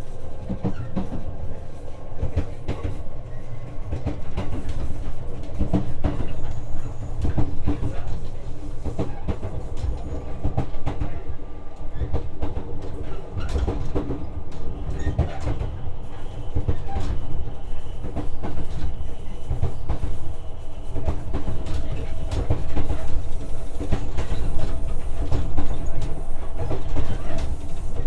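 JR West 125-series electric train running, heard from inside the car: a steady rumble of wheels on rail with frequent clicks over the rail joints and a steady hum, getting a little louder near the end.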